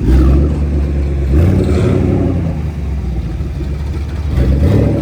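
A car engine running with a deep low rumble and revving, swelling about a second and a half in and again near the end.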